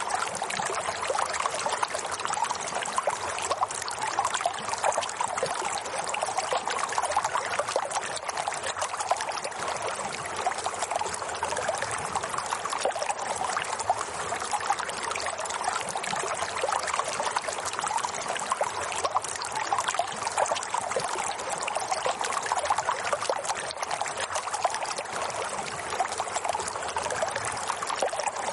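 Water flowing and trickling steadily, like a small babbling stream.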